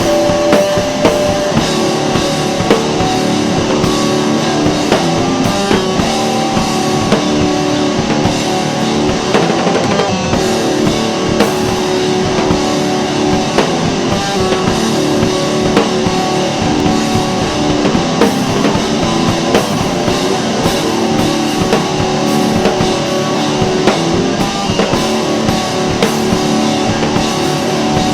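Rock music with electric guitar and drum kit playing steadily.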